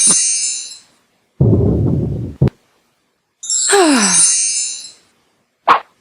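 Quiz sound effects from a PowerPoint slideshow, each set off by a click on an answer. A bright chiming effect fades out about a second in, a low buzzer sounds for about a second, then a falling tone with a sparkly shimmer above it, and a short sharp knock near the end.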